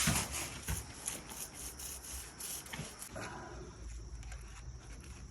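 Irregular scraping and rubbing strokes with a few sharp knocks, typical of hand work on masonry.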